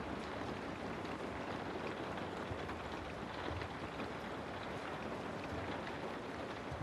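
Steady rain ambience: an even hiss of falling rain with faint scattered drop ticks.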